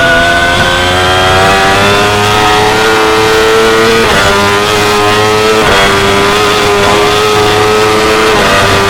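2016 Yamaha R6's 600 cc inline-four engine running hard at high revs, pitch rising over the first few seconds, then held high. The note dips briefly and recovers about four, five and a half and eight and a half seconds in, like quick gear changes.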